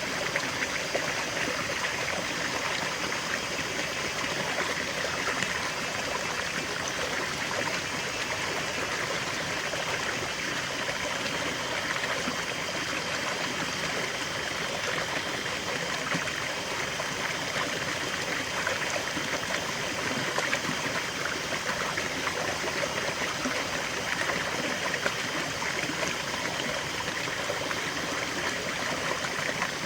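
River water flowing steadily over rocks, a continuous rushing and trickling with no breaks.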